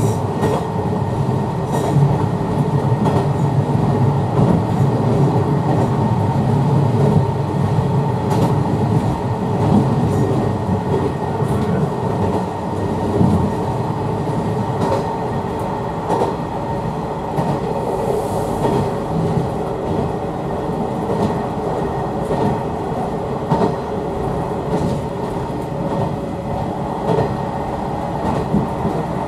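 Hisatsu Orange Railway HSOR-100 diesel railcar under way, heard from inside the car: a steady rumble and hum from the running train, with scattered clicks of the wheels over the rails.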